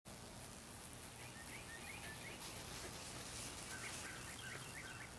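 Faint outdoor ambience with a small bird giving two short runs of quick chirping notes, over a steady low hum.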